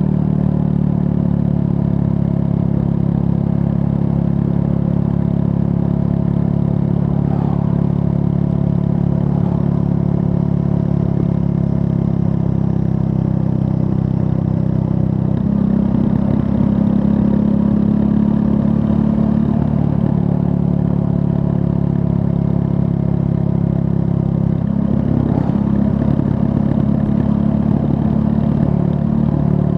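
Triumph Scrambler 400 X's 398 cc liquid-cooled single-cylinder engine running at steady revs under way, its pitch wavering and shifting about halfway through and again near the end.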